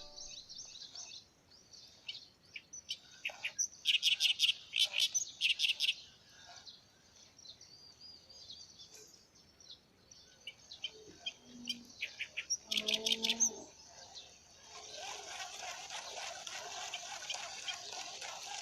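Birds chirping in quick runs of repeated high notes, loudest about four seconds in and again near thirteen seconds. After about fifteen seconds a steady hiss sets in.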